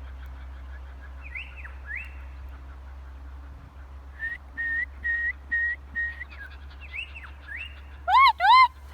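Wild birds calling in the bush: a series of whistled notes, first two upward slurs, then a run of five short even notes, and near the end two loud arched calls.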